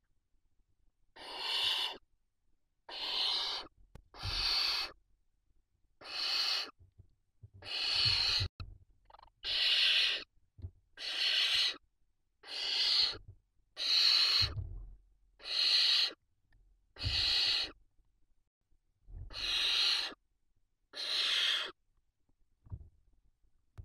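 Barn owl nestlings giving a series of about thirteen rasping hisses, each under a second long and a second or so apart: the snoring begging calls that barn owl chicks make in the nest.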